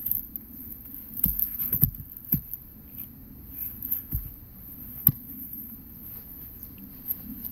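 Scattered knocks and thuds of logs and an axe being handled while splitting firewood, with one sharper crack about five seconds in.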